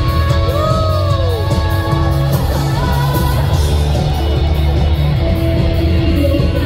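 Live rock band playing through a concert PA: electric guitar with bent notes about a second in, over steady bass and drums, with singing.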